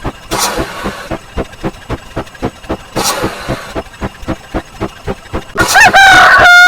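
Rapid, even ticking of counter sound effects, about six clicks a second, with brief hissing bursts near the start and about three seconds in. Near the end a loud, long pitched rooster-crow sound effect rises and then holds steady.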